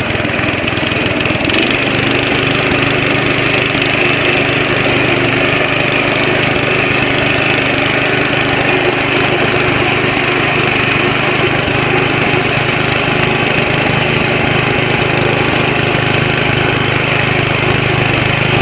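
Riding lawn mower's engine running steadily and loud while the mower is driven.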